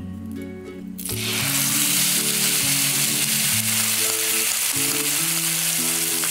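Yellow capsicum paste sizzling as it hits hot ghee in a non-stick pan, a loud steady frying hiss that starts suddenly about a second in. Background music plays underneath.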